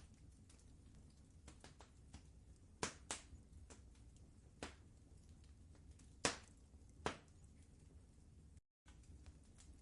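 Wood fire crackling in a fireplace: scattered sharp pops over a low steady rumble, the loudest about six seconds in. The sound drops out completely for a moment near the end.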